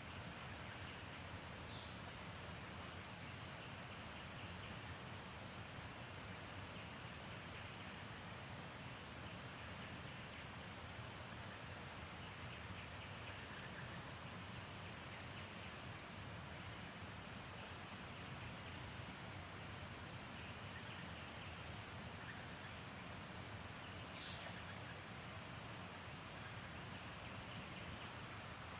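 Steady high-pitched insect chorus trilling through the early-morning countryside. Two short falling calls cut through it, one about two seconds in and one near the end.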